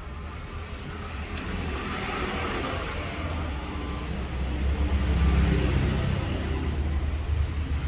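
Low background rumble that swells to a peak about five seconds in and then eases a little, with a faint click about a second and a half in.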